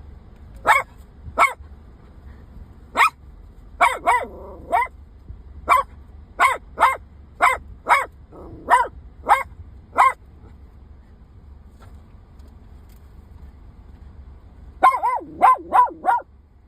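A dog barking in short, sharp barks, one or two a second. It falls silent for about four seconds, then barks in a quick run near the end.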